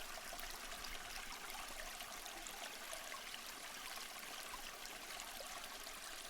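Water stream flowing and trickling steadily.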